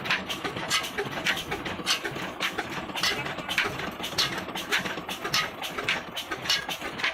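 Old Ruston Hornsby 35 HP diesel engine running, with a slow, even beat of sharp exhaust bangs about two a second over a steady mechanical rumble.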